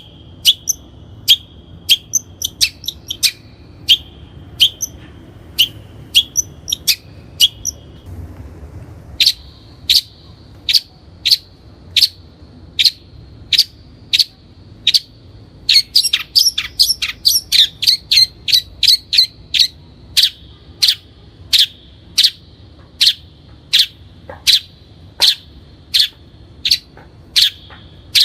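Long-tailed shrike singing: a long series of sharp, high notes, one or two a second, over a steady high tone, with a short break about eight seconds in and a quick flurry of notes partway through.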